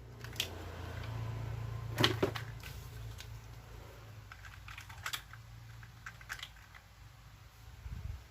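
Scattered light clicks and taps from small plastic toy airplane parts being handled, the loudest cluster about two seconds in, over a low steady hum.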